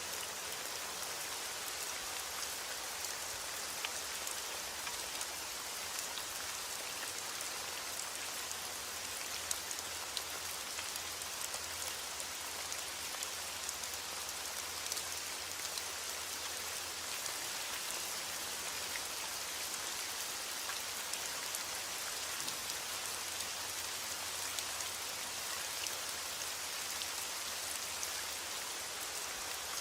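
Steady rain falling, an even hiss with many small individual drops pattering on a surface.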